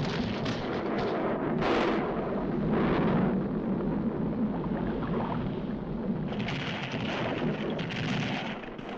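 Cartoon sound effects of a volcano eruption: a continuous deep rumble with a couple of louder blasts in the first few seconds, joined by a hissing rush from about six seconds in.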